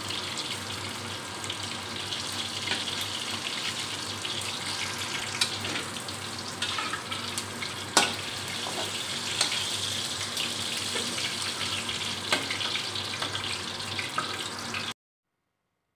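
Pieces of spiced snake meat sizzling as they fry in oil in a steel wok, with a metal spatula clinking and scraping against the wok a few times. The sizzling stops abruptly about a second before the end.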